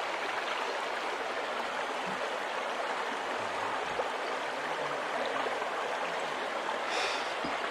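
Steady rush of flowing river water. Near the end there is a brief higher-pitched sound.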